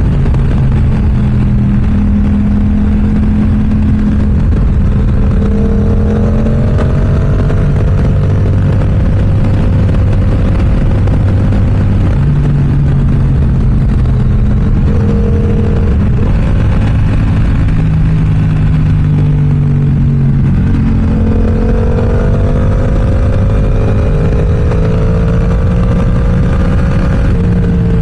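Yamaha R7's parallel-twin engine through an aftermarket M4 exhaust, under way and running through the gears: the engine note climbs under throttle, drops at the shifts and eases off between, with two longer climbs about a quarter of the way in and again past two-thirds of the way through.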